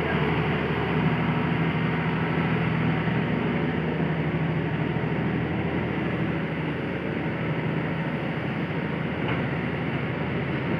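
Hitachi excavator's diesel engine running steadily under work, a continuous low drone whose lowest tones ease off somewhat about halfway through.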